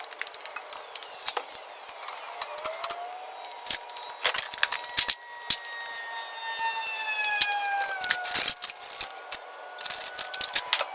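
Knocks, clicks and clatter of objects being handled and moved. In the middle, a thin whining tone slides slowly down in pitch for several seconds.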